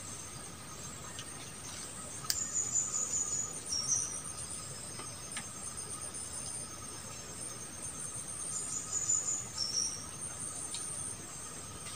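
Forest insects trilling steadily and high, with a short high call heard twice, about six seconds apart, and a single sharp click about two seconds in.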